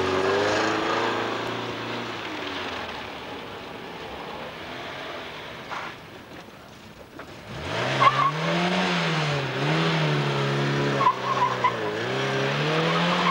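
Polski Fiat 125p engine revving hard, its pitch rising and falling several times as the car is thrown between cones. It eases off about halfway through, then picks up again, with a few short tyre squeals near the end.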